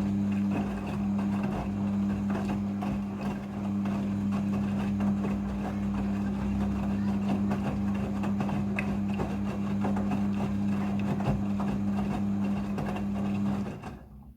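Midea front-loading washing machine running in its rinse cycle: a steady electric hum over a rushing, churning noise. It cuts off sharply near the end.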